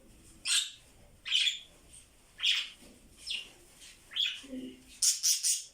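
Pet budgies chirping: short, high calls about once a second, with three in quick succession near the end.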